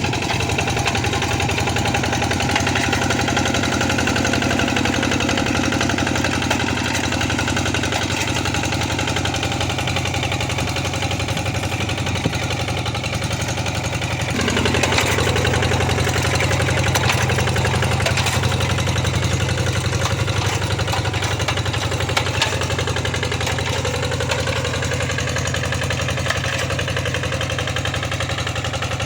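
Tractor engine running steadily while plowing a wet rice field, growing a little louder about halfway through.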